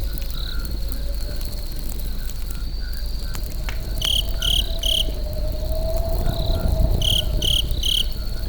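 Campfire burning with a low rumble and a few sharp crackles, under crickets chirping: a steady high trill, and two groups of three loud chirps, about halfway through and near the end.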